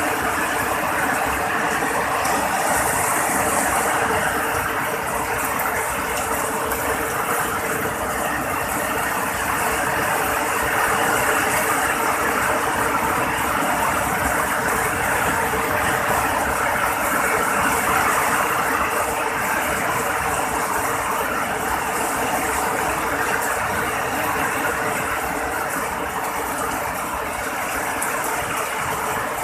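Heavy rain pouring down, a steady, dense hiss that holds without letting up.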